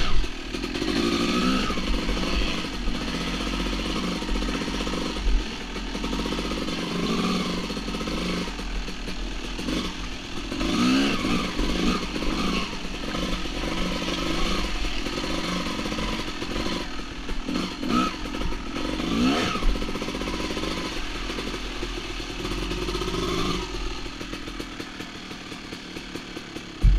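Two-stroke dirt bike engine revving up and down in short bursts of throttle, over and over.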